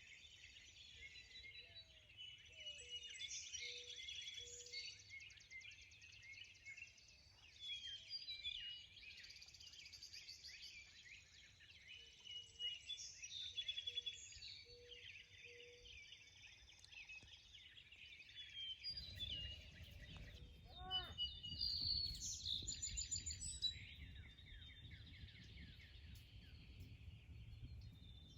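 Faint morning chorus of several birds chirping and trilling over one another, with a run of short, low repeated notes from one bird twice. A low rumble joins about two-thirds of the way in.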